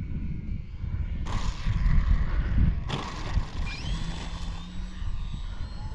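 Wind buffeting the microphone, with two surges of hiss about one and three seconds in. A bit over halfway through, the brushless electric motor of an E-flite Valiant 1.3M RC plane whines up sharply in pitch and then holds a high, slowly rising tone as it throttles up for another circuit.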